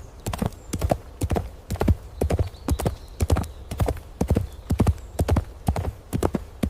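Horse hoofbeats: a quick, uneven run of hoof strikes on the ground, several a second, as of horses moving at a fast gait.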